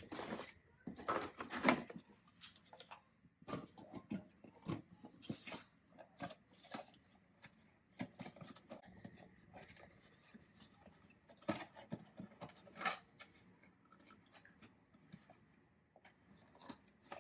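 Close handling sounds of packaging and hair dryer parts: irregular rustling, tapping and small clicks, in louder clusters near the start and again a few seconds later. The dryer is not running.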